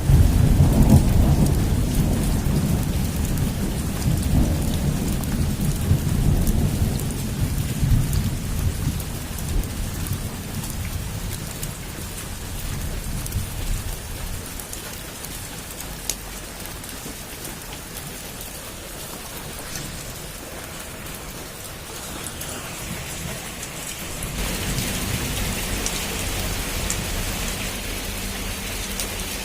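Heavy rain falling on a roof, with a long roll of thunder rumbling in the first several seconds and dying away. Near the end the rain grows louder again.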